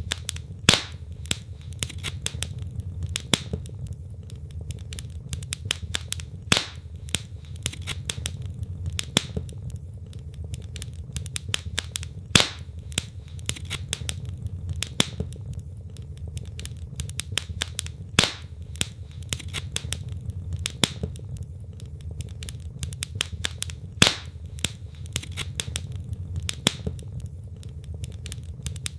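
Wood fire crackling in a fireplace: a steady low rumble of flames with many small sharp crackles and a louder pop from the burning logs every few seconds.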